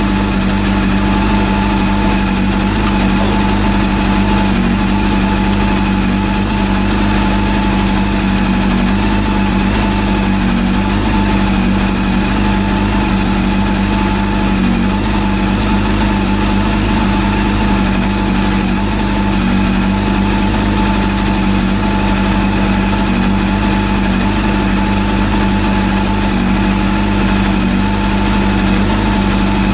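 Rebuilt Honda CB400 inline-four engine idling steadily at a constant speed, warmed up and set to about 1,450 rpm, while the first cylinder's idle is tuned for the highest rpm.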